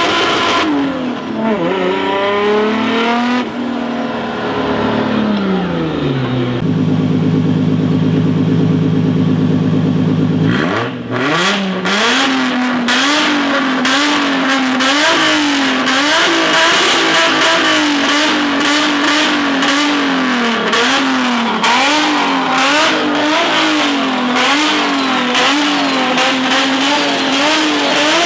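Turbocharged Toyota 1JZ inline-six revving hard through a freshly built exhaust. The revs sweep up and down, hold steady for a few seconds, then rise and fall about once a second in repeated throttle blips.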